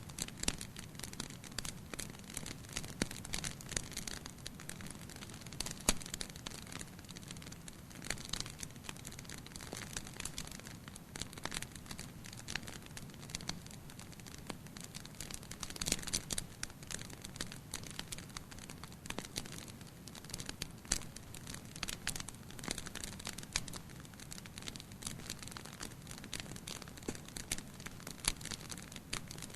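Wood fire burning in a fireplace: frequent, irregular crackles and sharp snaps over a steady low sound from the flames.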